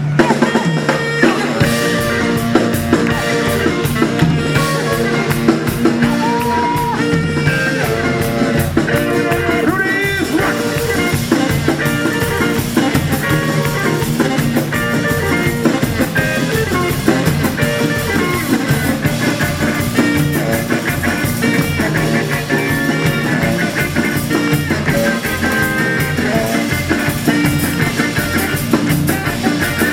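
Rock and roll band playing: guitar and drum kit with a steady beat.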